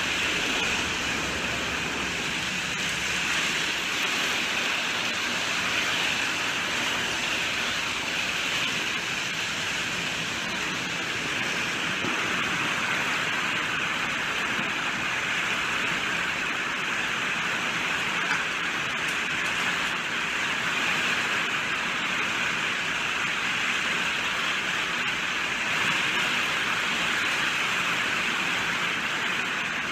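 Steady rainfall: a dense, even hiss at a constant level, with no separate drops standing out.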